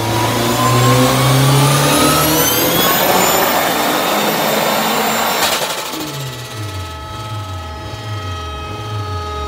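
Turbocharged VW AP 2.0 four-cylinder engine pulling up through the revs under load on a dynamometer, its note rising steadily for about five seconds. It then cuts off sharply as the throttle closes, and the engine speed falls back unevenly.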